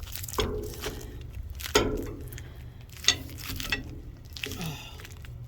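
Heavy items being shifted around in a dumpster: about five sharp knocks and clanks, several with a brief ring, and a short falling scrape.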